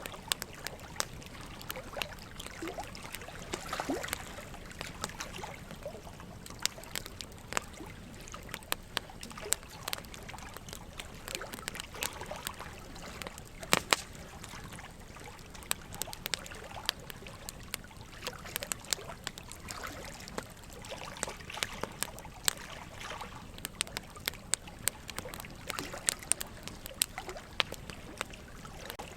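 Wood fire crackling in a fireplace, with many irregular sharp snaps and pops, a louder double pop about halfway through, over a steady trickle of running water.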